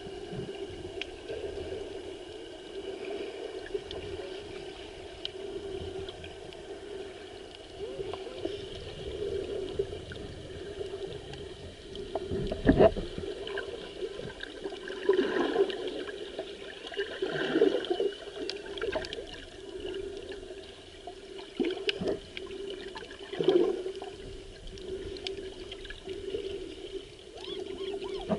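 Muffled underwater sound of seawater sloshing and gurgling around the camera, over a steady low hum, with several louder swelling surges from about halfway in.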